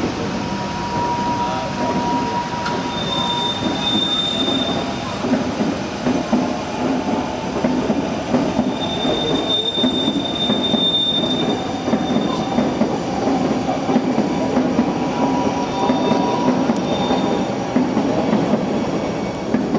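Double-deck electric suburban train rolling past over the tracks, running with a steady clatter of wheels on rail. High, thin wheel squeals come and go several times as it passes.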